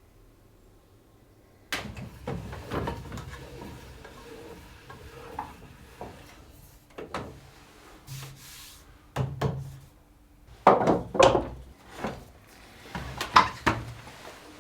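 Handling of the restored cast-iron vise and wooden pieces: irregular knocks and rubbing scrapes starting about a second and a half in, with a run of sharper, louder knocks near the end.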